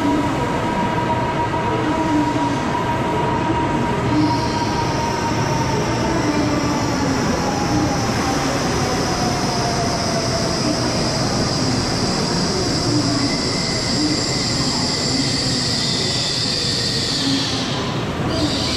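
N700S Kamome shinkansen train pulling into the platform and slowing, with a steady rumble and a motor whine that falls in pitch. A high, steady squeal sets in about four seconds in and cuts off shortly before the end as the train comes to a stop.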